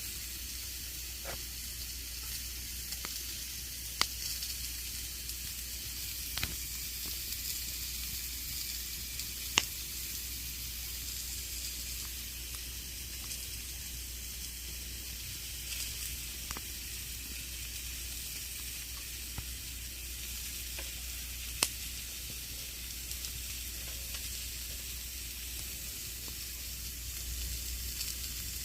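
Campfire burning: a steady hiss of flames with scattered sharp pops and crackles from the burning wood, three of them louder, about four, ten and twenty-two seconds in.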